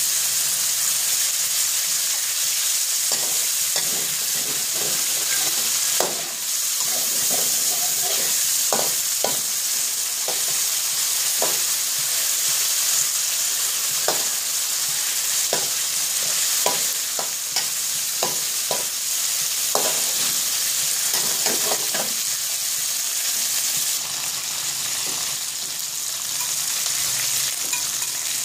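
Pieces of fish sizzling in hot oil in a steel wok, a steady hiss, with a metal spatula scraping and tapping against the wok as it stirs them, the strokes coming repeatedly through the middle of the stretch.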